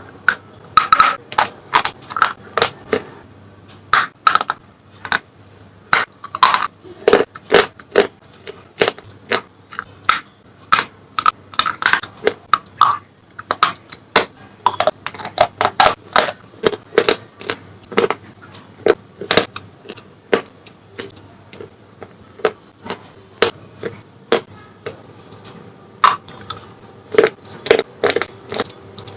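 Slate pencils being bitten and chewed close to the microphone: a rapid, irregular series of sharp, dry crunches.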